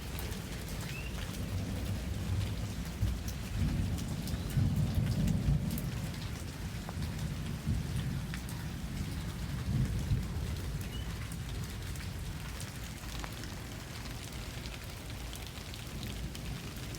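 Steady rain falling, with scattered drop ticks and a low rumble of thunder that swells about four to six seconds in and then slowly fades.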